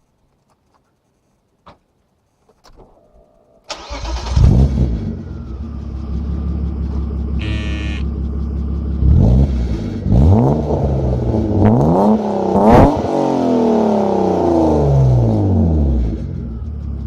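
BMW 525 E34 Touring's straight-six started after a short crank about four seconds in, then idling through a custom 2.5-inch straight-pipe catback exhaust with a Magnaflow muffler. It is revved in several blips, the last and highest one falling slowly back to idle.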